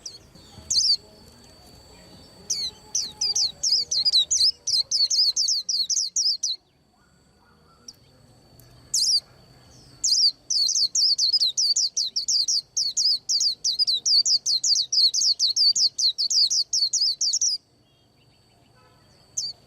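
White-eye singing: long runs of rapid, high-pitched downward-sweeping notes, about four a second, in two main runs with a short pause between them.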